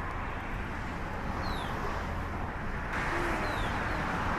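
Boeing 777-200 jet engines heard during its takeoff, a steady rushing noise that swells about three seconds in. A small bird chirps twice over it.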